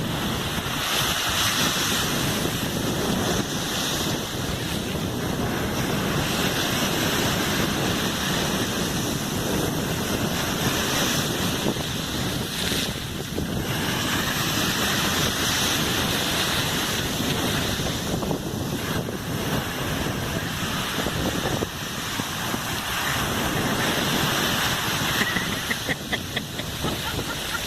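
Ocean surf washing on a sandy beach, a steady rush of breaking waves.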